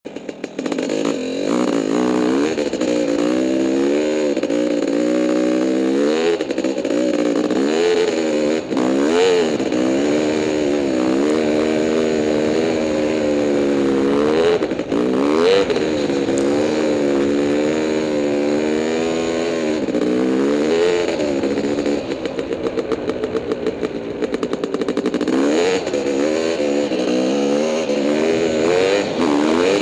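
Honda CR500 two-stroke dirt bike engine being ridden hard, revving up and down over and over as the throttle is worked. The pitch climbs and falls every second or two, with a choppier stretch a little past the middle.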